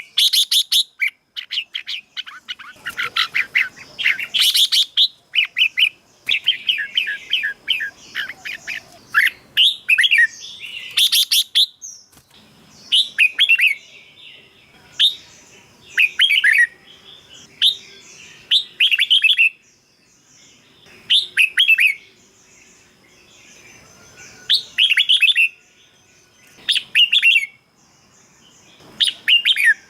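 Red-whiskered bulbul singing short, bright warbled phrases. The phrases come thick and overlapping at first, then settle into single phrases repeated about every two seconds.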